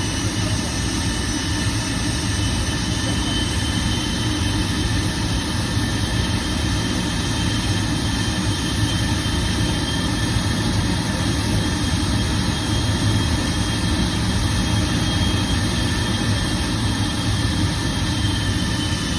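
Embraer 175 jet's General Electric CF34 turbofan engines running steadily at high power during an engine test: a deep, steady roar with a high whine over it that drops slightly near the end.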